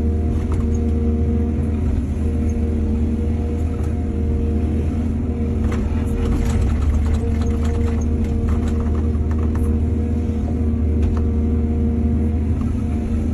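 Excavator's diesel engine running steadily with a deep rumble, with a spell of clattering knocks in the middle.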